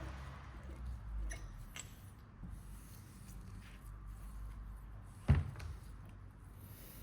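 Small handling clicks and one sharp knock about five seconds in, over a steady low hum: parts being handled and set down at a workbench during an oil pump rebuild.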